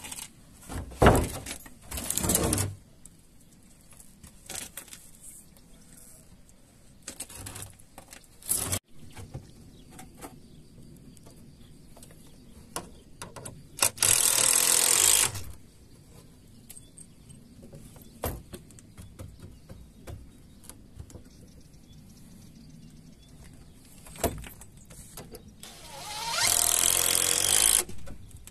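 Power drill-driver driving screws into wood in short bursts: two brief runs in the first few seconds, then two longer runs of about a second and a half, near the middle and near the end, with scattered knocks and clicks of handling between.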